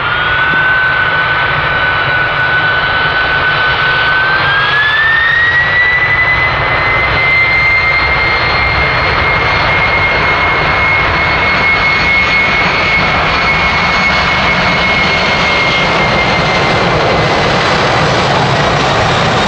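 Boeing 767-300's jet engines running at high thrust: a loud, steady rush with a whine that rises in pitch about four seconds in and then holds, as the engines spool up for the takeoff roll.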